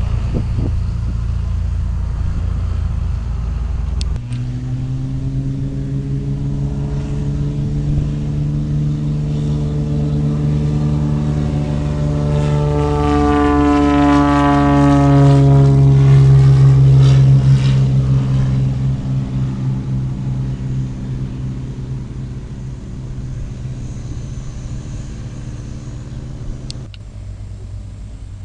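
An aircraft passes overhead. Its engine noise builds steadily to a peak a little past the middle, with a sweeping whoosh as it goes by, then fades away.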